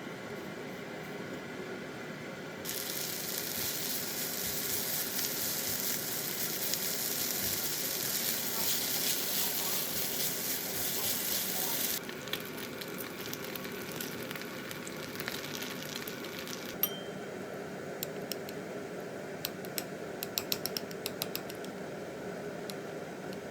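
Food frying in a pan: a loud sizzle that stops suddenly after about nine seconds, then a quieter sizzle with a run of light clicks near the end.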